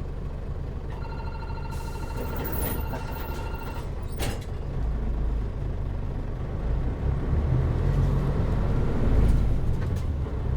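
Inside a Mitsubishi Fuso Aero Star KL-MP37JM city bus: a rapid electronic warning beep sounds for about three seconds, with a hiss of air, and a sharp clack about four seconds in, as the doors close. Then the diesel engine's low rumble grows louder as the bus pulls away.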